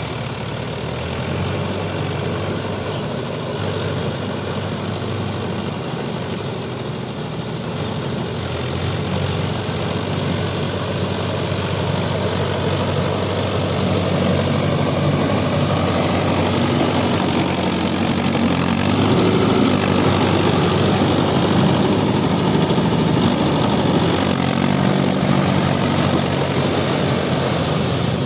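Mahindra Yuvo Tech Plus 585 DI 4WD tractor's diesel engine running steadily while pulling a rotavator through water and mud, growing louder from about halfway.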